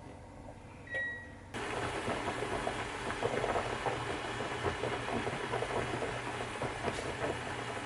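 Food sizzling and crackling in a hot frying pan, starting suddenly about a second and a half in, just after a short beep.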